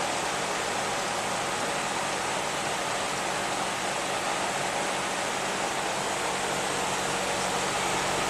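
Rheem two-stage heat pump outdoor units running: a steady rush of air from the condenser fans over a steady low hum, quiet and even throughout.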